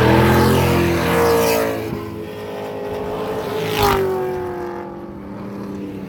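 Drift car engines running at high revs as cars pass. The sound is loud at first and drops off about two seconds in, with a sharp crack a little before four seconds in.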